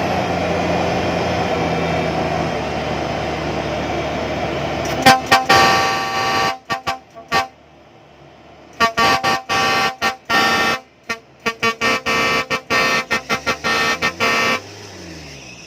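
Rice combine harvester's custom-built horn sounding in a rapid series of short toots and a few longer blasts, starting about five seconds in. Before that, a steady engine noise.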